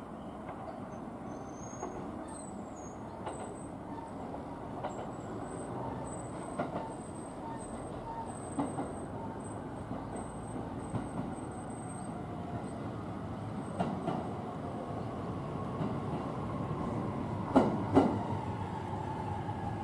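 JR East E657 series electric train running into the station and slowing to stop: steady running noise with wheels clicking over rail joints, and a whine that falls in pitch as it slows. Two loud knocks from the wheels near the end.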